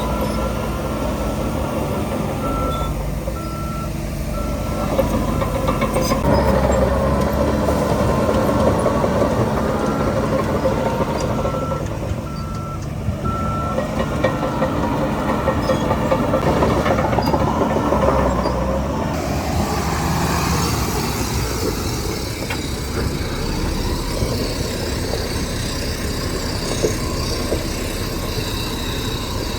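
Heavy earthmoving machinery's engine working under load, swelling and easing, with a reversing alarm beeping in two short runs.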